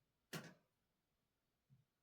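A single sharp knock on a desk about a third of a second in, with a brief ring, and a faint low thump near the end, against near silence.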